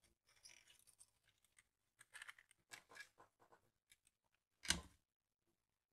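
Faint clicks and scraping of small hand tools being worked, with one louder sharp knock near the end.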